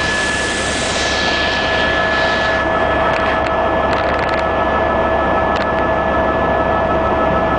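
Steady, loud cabin noise of a tour helicopter in flight: a constant whine over a rushing hiss. The higher part of the hiss dies away in the first few seconds.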